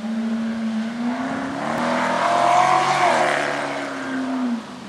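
Holden Commodore ute with an automatic gearbox driven hard up a hillclimb: the engine note climbs and is loudest about halfway through as the ute passes, then falls away. Near the end the sound dips briefly and picks up again.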